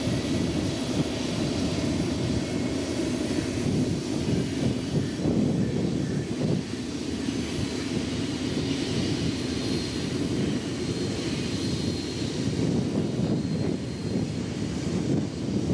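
Union Pacific freight train rolling past, a steady low rumble of wheels on rail that holds level throughout.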